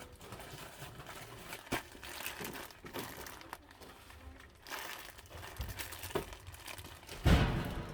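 Rustling and crinkling as items are handled, in scattered short bursts, with a loud dull thump about seven seconds in.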